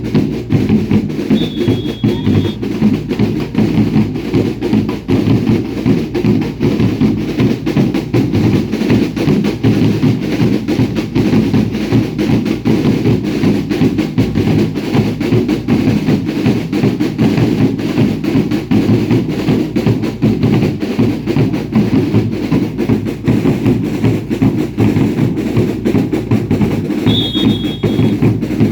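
Bass drums and snare drums of a baile indio dance troupe beating a fast, steady, continuous rhythm. A short high whistle sounds about a second and a half in and again near the end.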